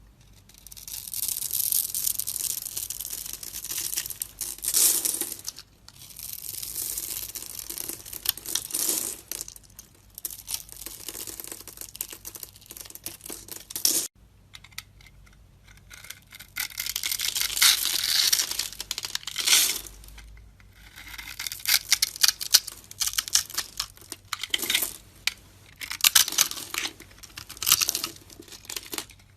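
A blade cutting and scraping into a bar of soap: scratchy shaving strokes in runs of one to four seconds with short pauses between, and one sharp tap about halfway.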